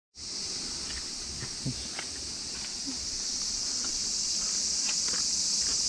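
Summer insect chorus: a steady, high-pitched drone of many insects, with a few faint clicks and knocks underneath.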